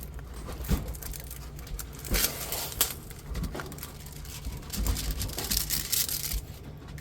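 Plastic crinkling and rustling from handling diamond painting kit packaging and canvas, in irregular bursts with scattered clicks.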